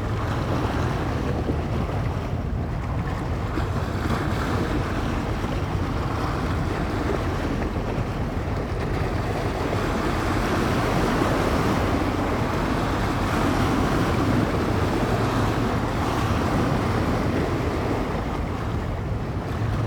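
Small bay waves washing against the shore under a steady wind, with wind buffeting the microphone; the wash swells a little about halfway through.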